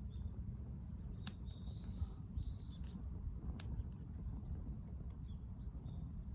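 Wood campfire burning in a fire stand, crackling with scattered sharp pops over a steady low rumble. A small bird chirps a few short high notes about one and a half to three seconds in.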